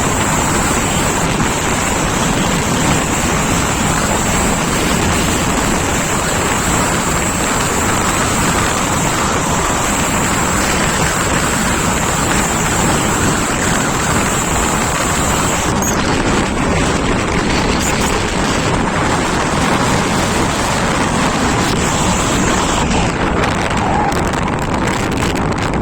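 Steady rushing wind noise on the microphone with the rumble of a moving vehicle at speed, with a thin high whine that stops about two-thirds of the way through.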